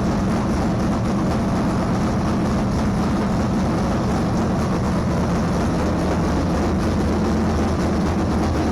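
Dirt late model race car engine idling steadily, loud and even, with no revving.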